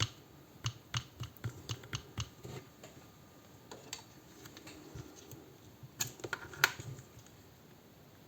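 Small metal parts and tools clicking and tapping as a thin cut washer is fitted into a spinning reel's handle mechanism to stop the handle knocking. There is a quick run of light clicks in the first couple of seconds, and a few sharper clicks come later.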